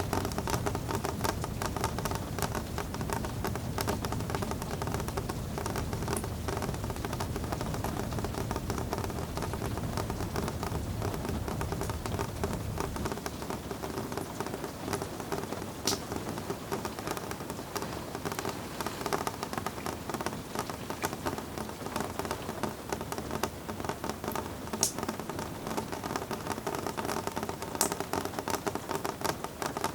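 Steady rain, a dense patter of drops with an occasional sharper drip. A low rumble underneath stops about a third of the way in.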